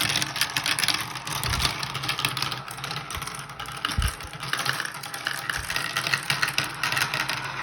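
Several marbles rolling and clattering down a marble-run track: a steady fast rattle of small clicks, with a low thump about a second and a half in and another about four seconds in.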